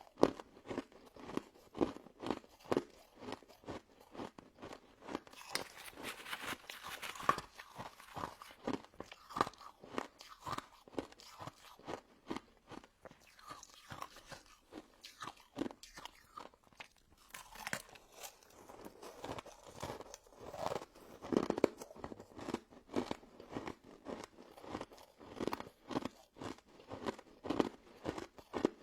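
Close-miked crunching and chewing of a pink crystal snow ice dessert: a run of crisp, icy crunches from bites and chews, a couple a second, with a brief lull about two-thirds of the way through.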